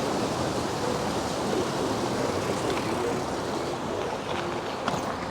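Steady rushing wind noise on the microphone, with a low rumble, while riding an e-bike.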